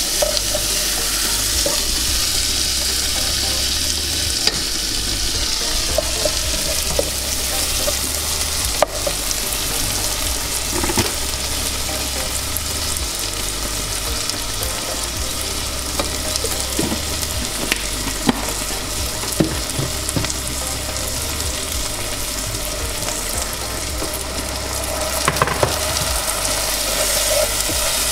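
Onions, tomatoes and ground crayfish frying in hot palm oil in a saucepan, sizzling steadily while a spatula stirs them, with a few sharp knocks of the spatula against the pot.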